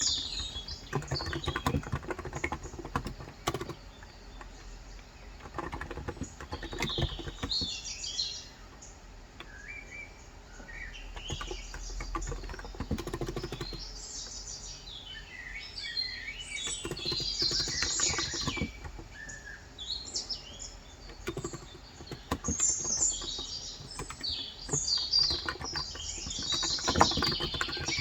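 Typing on a COX Endeavor tenkeyless keyboard with 35 g electrostatic capacitive (contactless) switches, keystrokes in irregular runs, while birds chirp again and again.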